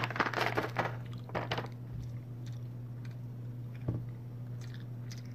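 Close-up chewing and crunching of chocolate-covered roasted cashews, with dense crunchy bursts in the first second and again around a second and a half in, then a single click near four seconds, over a steady low hum.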